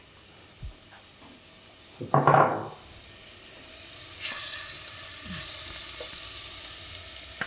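Grated carrots frying in a steel pot, the hot fat starting to sizzle about four seconds in and then hissing steadily. There is one brief louder knock about two seconds in.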